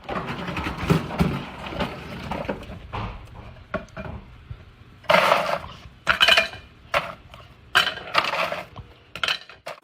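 Clattering and knocking of hard objects, with many short clicks and clinks, and several louder short sounds in the second half.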